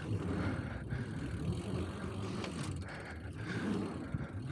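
Mountain bike being ridden on a trail: a steady rumble of tyres and bike noise with wind buffeting the microphone, and a few faint rattles.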